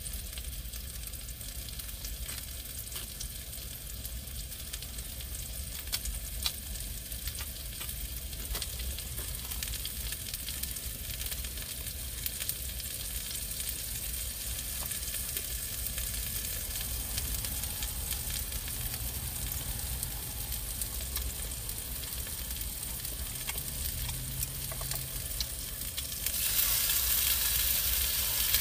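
Beef sizzling and crackling in a frying pan, a steady hiss with many small pops, growing louder near the end.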